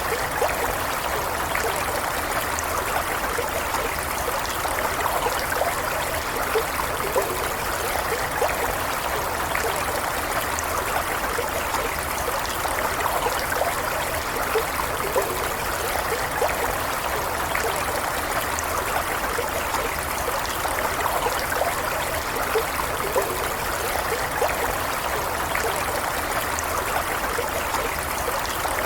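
Stream water flowing and trickling steadily, with small splashes and gurgles flickering through the constant rush.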